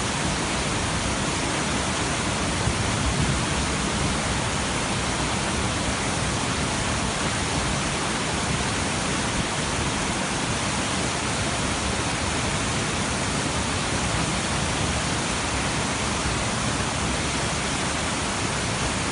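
Heavy rain pouring down in a steady, unbroken rush of noise.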